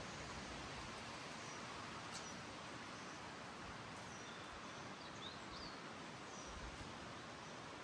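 Faint forest ambience: a steady, even hiss with a few short, high bird chirps scattered through it, including a quick rising-and-falling pair a little past the middle.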